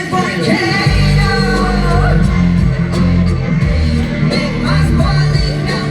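Live concert music through a loud PA: a singer's voice over a band, with heavy bass coming in about a second in.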